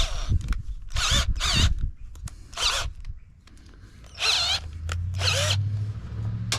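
Power drill run in about six short bursts, each a quick high whine that rises and falls with the trigger. A low steady hum comes in near the end.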